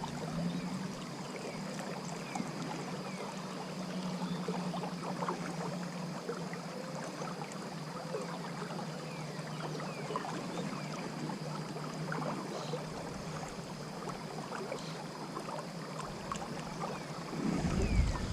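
Creek water running and rippling around the angler, a steady, even wash with no speech. A low rumble rises near the end.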